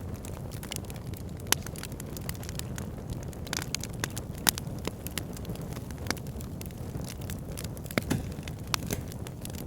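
Fire burning in a backyard fire pit, crackling over a steady low rush of flame, with sharp pops every second or two; the loudest comes about halfway through and another near the end.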